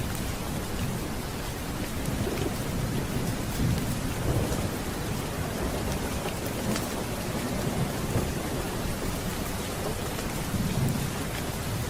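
Steady rain with thunder rumbling low in slow swells, loudest about four seconds in and again near the end, and a few sharp clicks over the top.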